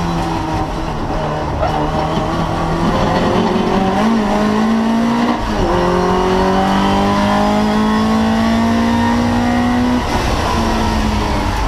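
Opel Manta's 2-litre 16-valve four-cylinder race engine pulling hard, its pitch climbing through the revs. There is a quick gear change about five and a half seconds in, a long rising pull after it, and the revs drop again near the ten-second mark.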